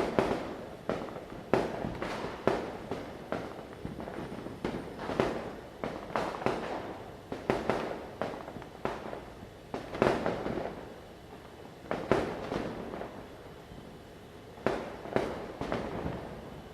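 Diwali firecrackers going off in irregular succession: sharp bangs, sometimes several a second, each with an echoing tail. There is a quieter stretch about three-quarters of the way through before the bangs pick up again.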